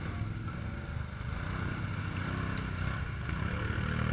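Truck engine running at low revs, with a slight rise in pitch a couple of times.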